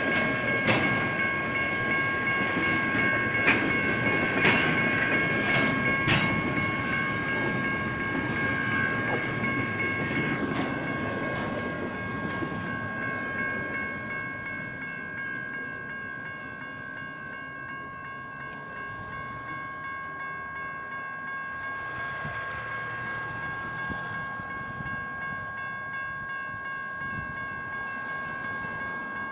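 A slow BNSF intermodal freight train rolls over a grade crossing with a steady rumble and sharp wheel clacks over the rail joints, while the crossing's General Signals electronic bells ring steadily. The train noise fades after about twelve seconds as the last car clears, and the bells ring on alone.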